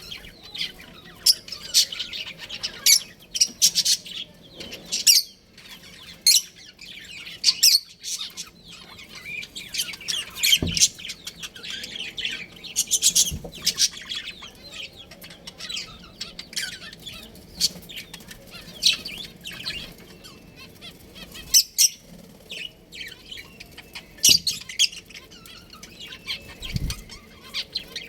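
Budgerigars chirping, with many short, sharp calls in quick succession and a few soft low thumps.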